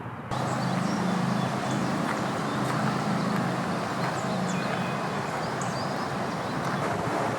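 Outdoor ambience: birds chirping over a steady rushing background noise, which starts abruptly about a third of a second in.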